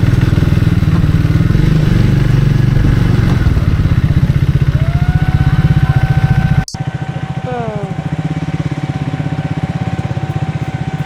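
Motorcycle engine running steadily on the road with a fast low pulsing. About two-thirds in, the sound cuts sharply and goes on quieter, with a steady high tone over it that partly slides down soon after.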